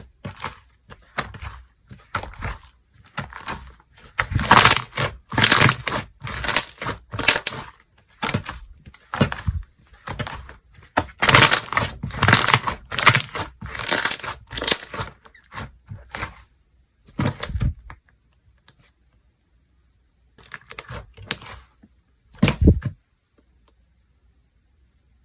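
Slime being squished, pressed and stretched by hand: a run of sticky squishing and popping sounds one to two a second, which thins out and stops for a few seconds near the end.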